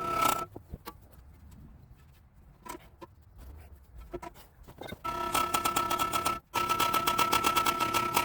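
A mechanical buzzing with a steady pitch and a fast rattle, in bursts: briefly at the start, then again from about five seconds in with a short break, with faint clinks and scrapes between.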